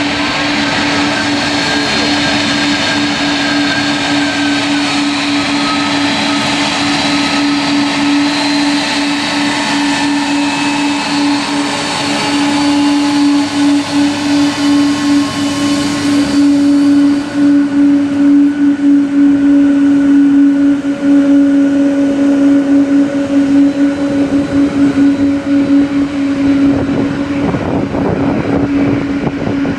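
Jet engines of a Japan Air Lines Boeing 777-200 running at an airport: a steady low hum under several whining tones and a rushing hiss. The hiss thins out about halfway through, and the sound wavers more after that.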